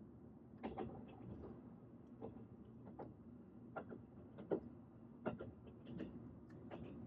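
Train running: a faint, steady low rumble with irregular clicks and knocks from the wheels and carriage.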